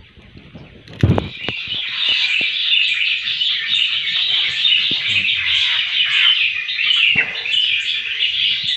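Birds chirping in a dense, continuous, high-pitched chatter that starts about a second and a half in, with a dull thump just before it.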